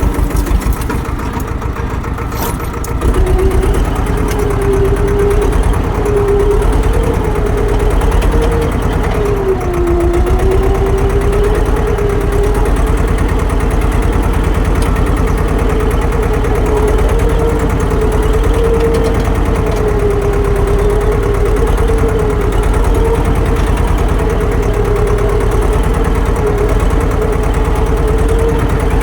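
Tractor engine running steadily, with a higher tone above it that wavers up and down in pitch; it gets louder about three seconds in and then holds steady.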